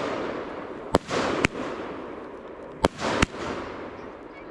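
Fireworks going off: sharp bangs in two pairs, about a second in and again near three seconds, each followed by a trailing crackling hiss that fades away.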